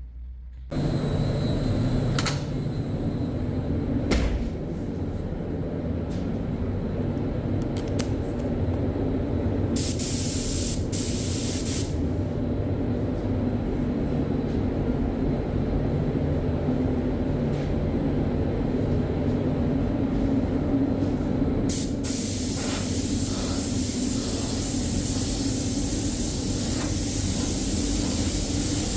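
Compressed-air spray gun hissing as it sprays primer onto bare sheet metal, in a couple of short bursts near the middle and then continuously over the last several seconds. Under it runs a steady low machine drone, and there are two sharp knocks in the first few seconds.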